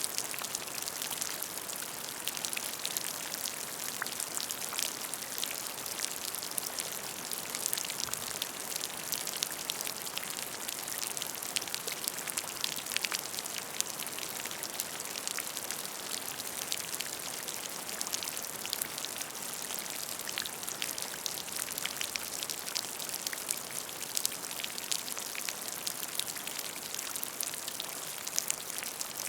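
Steady rain falling on a puddle, with many individual drops pattering and ticking on the water over a constant high hiss.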